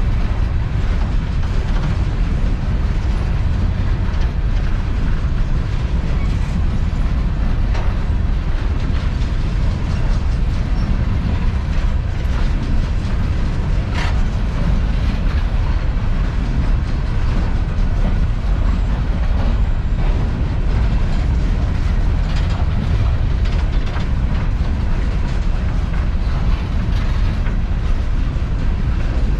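Empty coal hopper cars of a freight train rolling past in a steady, loud rumble, with scattered clicks and clacks from the wheels.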